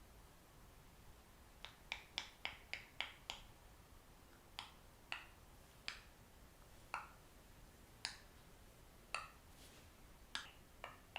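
Sharp snapping clicks: a quick run of about seven, then single clicks about once a second.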